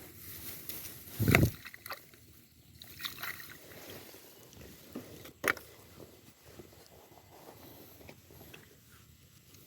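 Shallow water sloshing and splashing as an eel trap is handled and set in the water, with a heavy low thump about a second in and a sharp click about halfway through.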